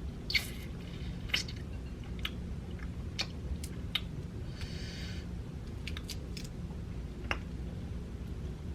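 Close-miked chewing of crunchy fried food, with sharp crisp crunches and mouth clicks every second or so and a longer crunch about five seconds in, over a low steady hum.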